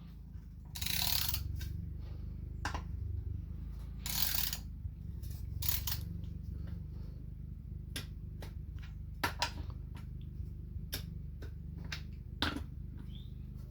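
Hand ratchet clicking and small metal tool clicks as the valve body bolts on a Honda automatic transmission are snugged down, with two short rasping runs of the ratchet about a second and about four seconds in.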